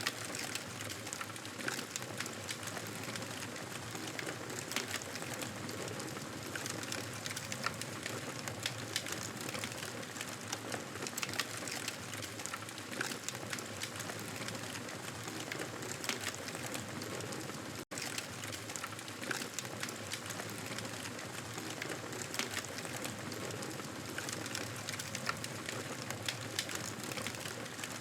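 Wood fire in a fireplace crackling steadily: a constant hiss with many small, irregular pops and snaps. The sound cuts out for an instant about eighteen seconds in, then carries on unchanged.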